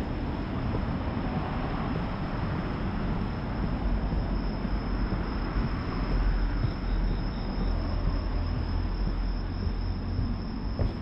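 Steady low rumble of passing road traffic, with a continuous high-pitched insect trill over it.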